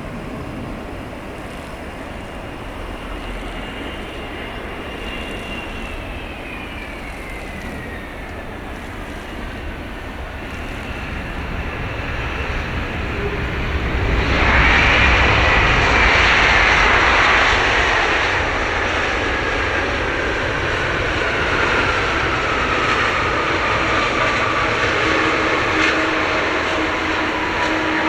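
Boeing 777-200ER twin-engine jet airliner landing: a high engine whine slides down in pitch as it comes past, then about halfway a sudden, much louder rush of noise sets in, with the whine still sinking slowly as the jet runs on down the runway.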